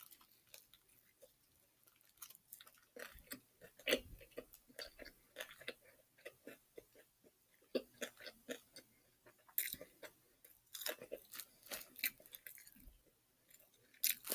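Someone chewing a bite of a crispy fried chicken sandwich close to the microphone: faint, irregular short crunches with brief pauses between them.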